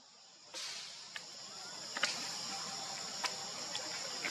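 Steady high-pitched insect chorus that comes in about half a second in, with a few faint clicks over it.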